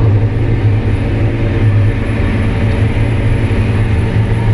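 John Deere 9620RX tractor's diesel engine running steadily under heavy load as it pulls a ripper through very hard ground, a constant deep drone.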